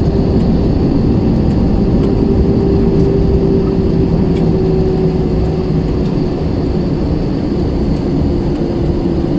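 Cabin noise inside an Airbus A320 rolling on the runway just after landing: a loud, steady rumble with a hum that slowly sinks in pitch as the aircraft slows.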